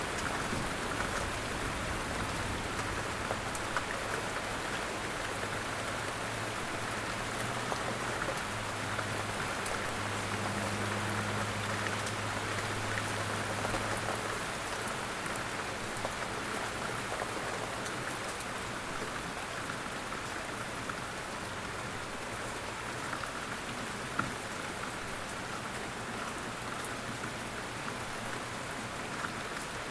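Steady rain falling on a surface: an even, continuous patter of many drops. A low drone underneath fades out about halfway through.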